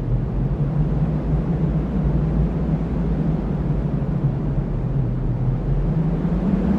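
Strong cyclone wind blowing as a steady, low rushing noise, with a wind tone in it that begins to rise in pitch near the end.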